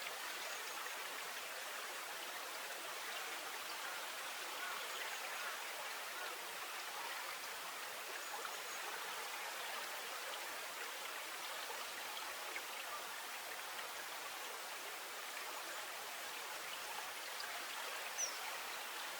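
Steady murmur of flowing river water with light trickling, and a single short high chirp near the end.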